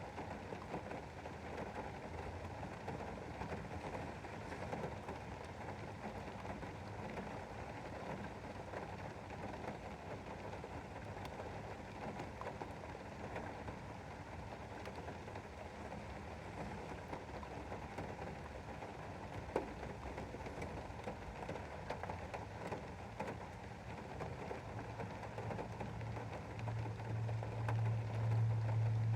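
Rain pattering steadily on a window pane, with one sharper drop tap about twenty seconds in. A low hum swells in over the last few seconds.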